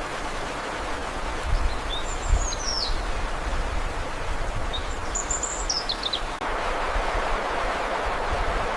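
A small songbird gives two high, thin calls, each a quick run of notes falling in pitch, over a steady rushing background noise. There are a couple of low bumps in the first few seconds, and the background changes suddenly about six seconds in.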